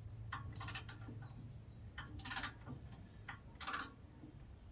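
Four short, faint bursts of metallic ratchet-like clicking from hand work on a portable band sawmill's blade and wheel mechanism, over a low steady hum.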